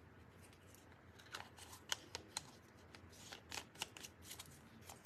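Faint, irregular light clicks and taps, about a dozen starting a second or so in, from small craft tools and wooden pieces being handled on a tabletop.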